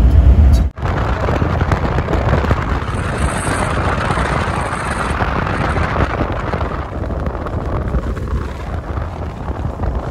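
Wind rushing and buffeting on the microphone of a moving vehicle, a steady noisy rush that eases toward the end, broken by a sudden dropout about a second in.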